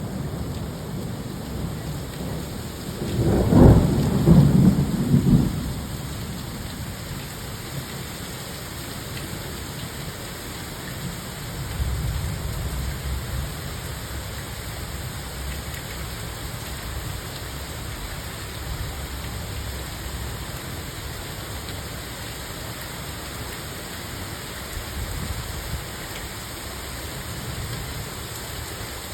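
Steady rain with thunder: a loud thunderclap rolling on for about two seconds, some three seconds in, and quieter low rumbles of thunder around twelve seconds and again near twenty-five seconds.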